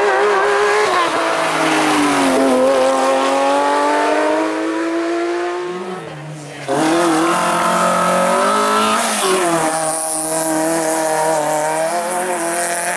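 Competition cars on a hillclimb run at full throttle, their engines revving up and down through the gears. About halfway through, the sound drops and a different car's engine cuts in abruptly.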